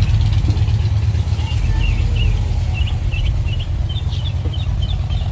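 Dodge Hellcat's supercharged V8 idling with a deep, steady rumble. Small birds chirp repeatedly over it.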